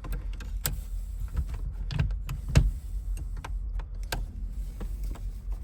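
Irregular clicks and knocks of small steering-column parts being handled and pried loose during an ignition replacement, the loudest knock about two and a half seconds in, over a steady low rumble.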